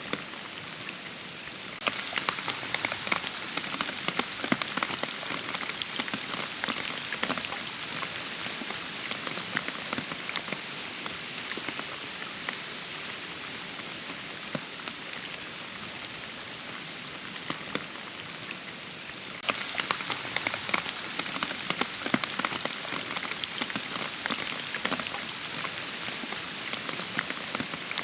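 Rain falling steadily, a constant hiss studded with many distinct drop hits. It turns abruptly heavier and louder about two seconds in and again a little past the middle.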